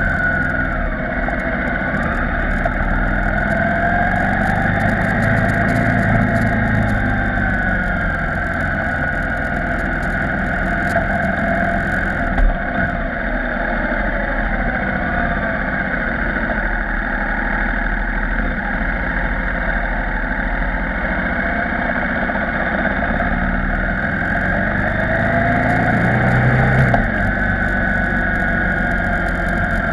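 KTM 990 Supermoto R's LC8 V-twin engine running at low road speed through mountain hairpins. The engine note rises as it accelerates a few seconds in, eases off while the bike slows for a bend, and rises again near the end. There is a single short knock around the middle.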